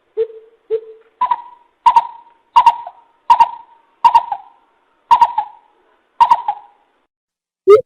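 Greater coucal (bìm bịp) calling: a series of about ten hollow hooting notes. The first two are lower, and the rest are higher and spaced farther apart toward the end. Each note starts with a sharp click.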